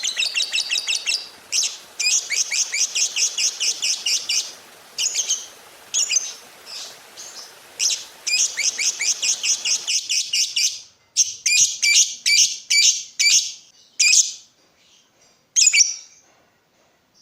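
Lovebird chattering: long runs of rapid, evenly repeated high chirps with brief breaks. About ten seconds in, the background hiss stops and the chirps come in shorter, sharper groups.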